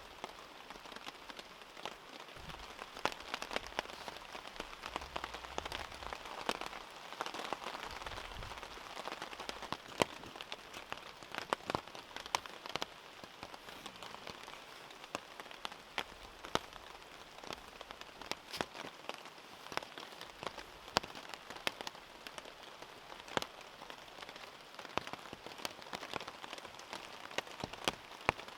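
Steady rain, with heavy drops striking sharply and irregularly many times a second.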